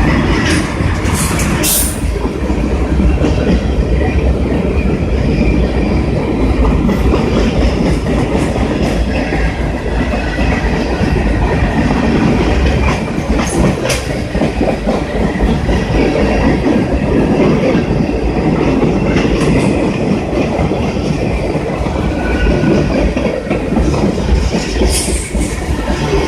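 A train running past close by: a loud, steady rumble of wheels on the rails, with occasional sharp clicks.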